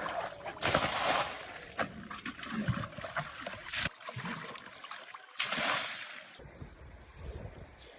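Water trickling and splashing in a thermal spring pool, with two louder splashes: one about half a second in and another about five and a half seconds in.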